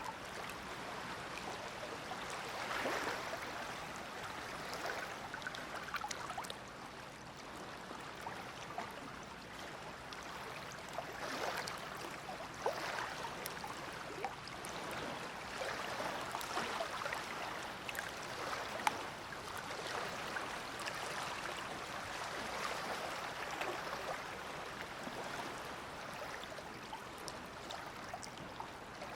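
Small waves of the Dead Sea lapping and splashing at the shore. It is a steady wash that swells every few seconds, with scattered small splashes and drips.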